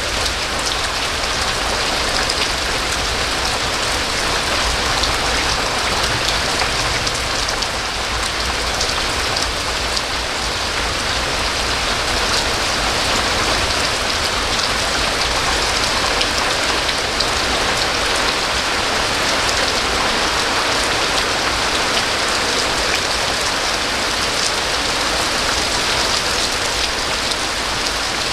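Steady rain falling, with fine drop patter on a surface.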